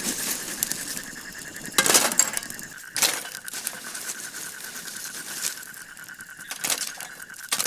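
Pieces of glowing charcoal embers dropped one by one onto the fire, clinking and knocking with a light crackle. A steady high insect trill runs through most of it.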